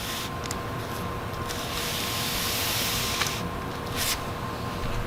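Rustling and hissing noise with a couple of clicks over a faint steady hum.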